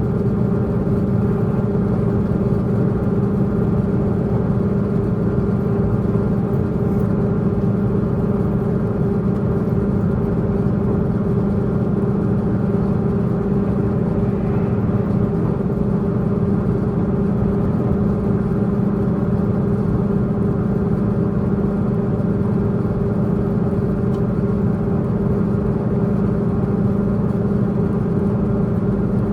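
Tze-Chiang diesel multiple unit's diesel engine running steadily under power over the low rumble of wheels on track, heard from inside the passenger car. It is a steady, even drone with no change in pitch.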